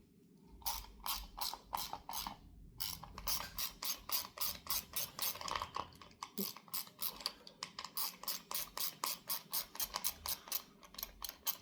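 Hand ratchet with a 1/4-inch socket clicking in quick, even strokes, about three or four a second, as a bolt is backed out of an HEI distributor.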